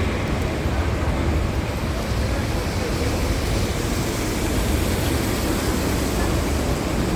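Steady rain on a city street, with road traffic running underneath.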